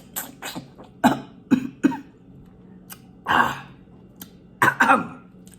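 A woman coughing and clearing her throat in several short bursts, while eating spicy food.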